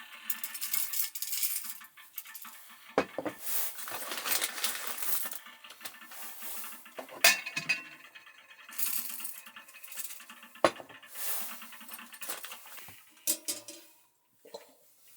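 Clinks and knocks of small hard objects being handled, like metal utensils and dishes, with stretches of rustling hiss in between.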